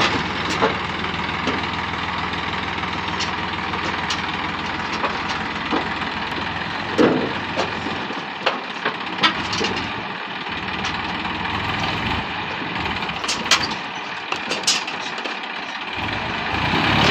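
Massey Ferguson 241 DI tractor's diesel engine running steadily, with scattered sharp knocks and clatter over it. The low engine note drops away about halfway through and comes back near the end.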